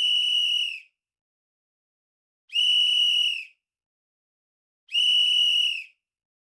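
A whistle blowing short steady high-pitched blasts, each about a second long and about two and a half seconds apart, three in all, with silence between them.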